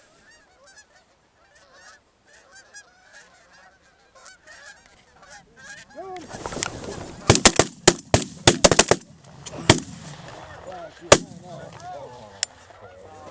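A flock of geese honking, faint at first and louder from about six seconds in. Then a rapid volley of shotgun blasts over about two seconds as the hunters open up on the birds, followed by three more single shots spaced a second or so apart while the geese keep honking.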